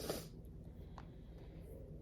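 A short sniff or breath from a woman who is emotional and near tears, right at the start, followed by a faint click about a second in over quiet room tone.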